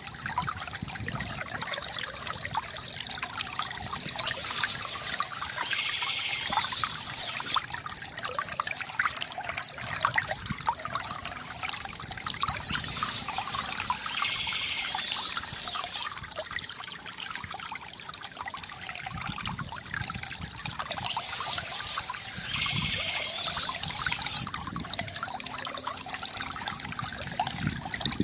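Small stream trickling and babbling steadily over stones, a continuous wash of water with many small splashes.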